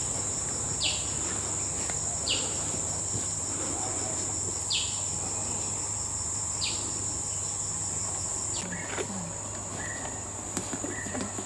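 Rainforest insects droning steadily at a high pitch with a fast pulse, and a few short falling chirps from another animal every second or two; part of the insect drone drops out about nine seconds in, after which short repeated chirps come in.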